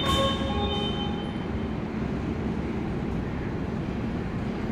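CRH Hexie high-speed electric train at the platform, running with a steady low rumble. A few short faint tones sound in the first second.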